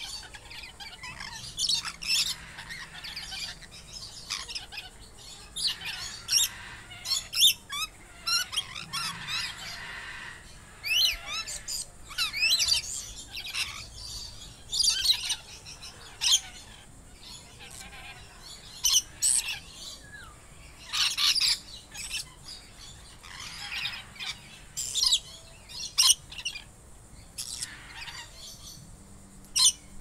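A flock of birds calling: many short, high calls and harsher squawks overlapping, coming in quick clusters every second or two.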